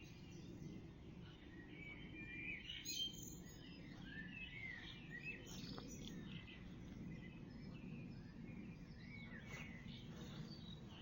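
Dawn chorus of several songbirds singing at once, overlapping whistled phrases and trills, over a steady low background hum.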